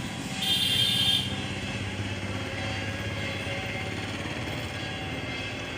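A motor vehicle's engine running steadily, with a brief high-pitched tone, like a horn, from about half a second to one second in.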